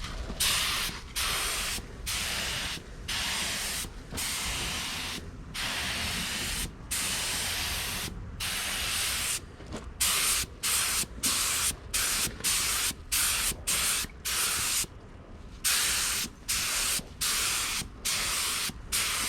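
Compressed-air paint spray gun hissing in repeated bursts as its trigger is pulled and released. The bursts last about a second each at first, then become shorter and quicker, around half a second each, from about halfway through.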